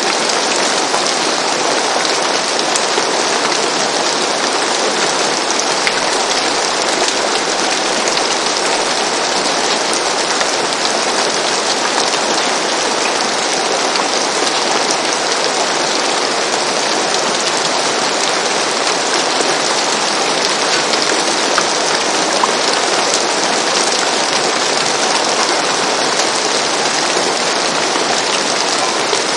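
Steady rain falling on a roof, an even hiss with fine patter of drops.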